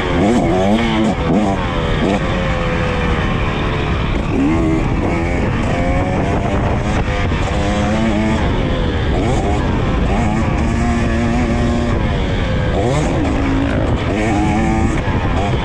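KTM EXC 300 TBI single-cylinder two-stroke engine being ridden hard, its pitch climbing and dropping again and again as the throttle is opened and shut through corners and jumps.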